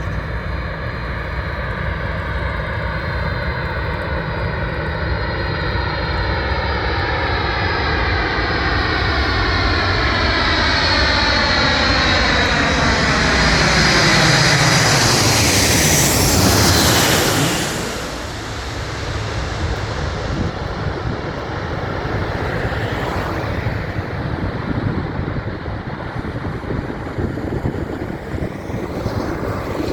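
Military airplane's engines passing close by, growing louder with the pitch sliding steadily down as it approaches and goes past. About 18 seconds in the level drops suddenly, and a steady engine sound carries on after it.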